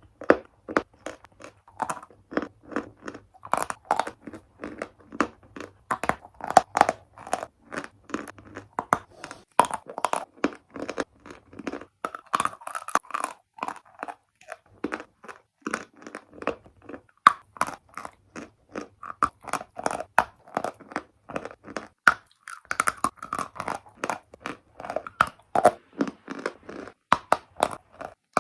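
Close-up crunching of chalk being bitten and chewed: a dense, irregular run of sharp crunches, several a second, with short pauses between bites.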